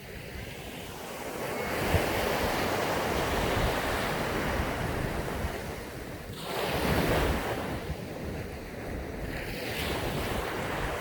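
Sea waves breaking and washing up a sandy beach, swelling twice, about a second and a half in and again past the middle, with wind on the microphone.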